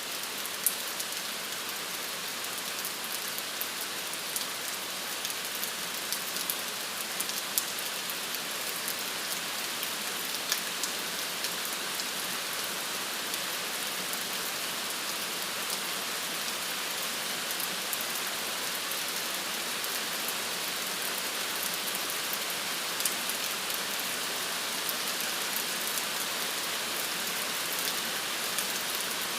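Steady rain falling on a surface: an even hiss with scattered sharp drop taps.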